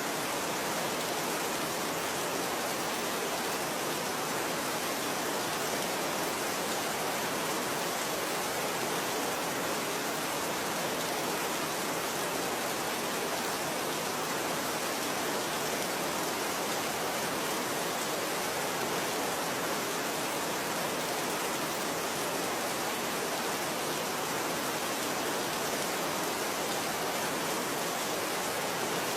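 Steady rain: an even, unbroken hiss of falling rain with no separate drops, thunder or changes.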